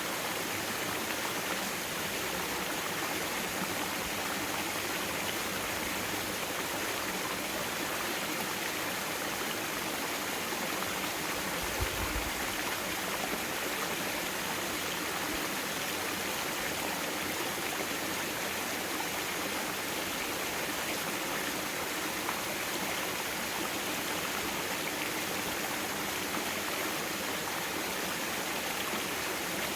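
Mountain valley stream flowing, a steady rush of water, with a brief low bump about twelve seconds in.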